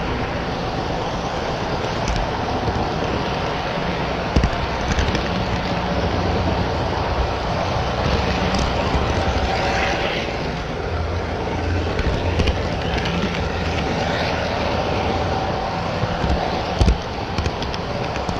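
HO scale model trains running on the layout: a steady rumble of wheels and motors on the track, with a few sharp clicks.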